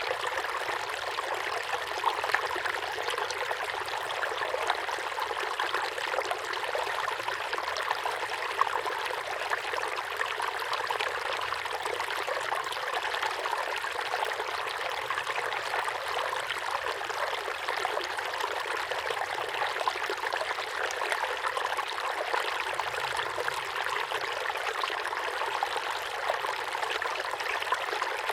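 Small waterfall pouring steadily into a pond: a continuous light splashing and trickling rush with no deep rumble, and a few slightly louder splashes now and then.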